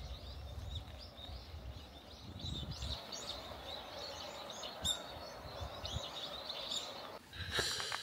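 Birds chirping repeatedly in short calls over a low, uneven rumble of outdoor background noise.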